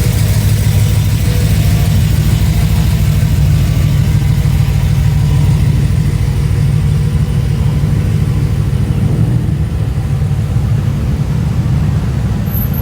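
Car engine idling, a deep steady rumble.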